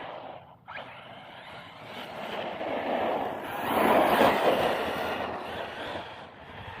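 Team Corally Asuga XLR 1/8 RC truck driving on 6S, with its brushless motor and tyres running and surging louder about four seconds in.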